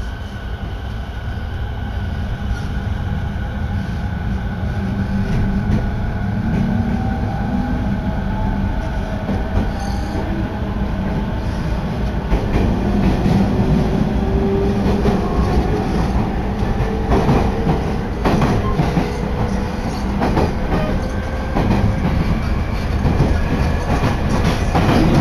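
Electric commuter train pulling away and gathering speed, heard from on board: the traction motors whine and climb steadily in pitch over a low running rumble, and the wheels clatter over rail joints, growing louder as it speeds up.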